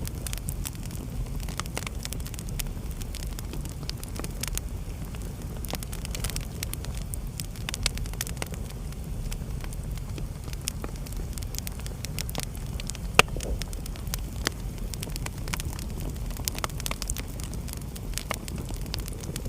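Wood fire in a fireplace crackling, with scattered sharp pops over a steady low rumble of the flames and one louder pop about 13 seconds in.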